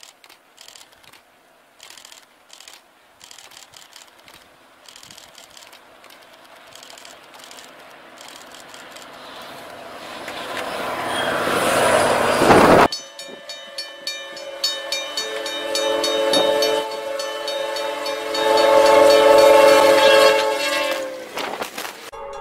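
Snowplow locomotive approaching through deep snow: a rush of thrown snow and train noise builds to a loud peak about twelve seconds in and stops abruptly. Then a train horn sounds for several seconds, a chord of steady tones.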